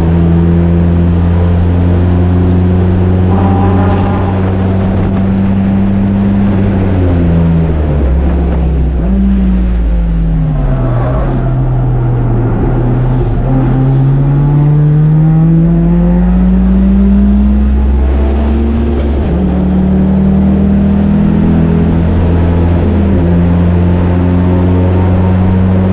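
Turbocharged 1.8-litre four-cylinder Mazda Miata engine under load on track. It holds high revs, drops in pitch about a third of the way in as the car slows for a corner, then climbs steadily back up as it accelerates out and holds high revs again.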